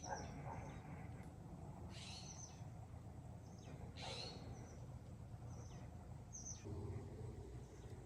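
Wild birds calling outdoors: short, high chirps and quick downward sweeps repeating every second or two over a steady low rumble.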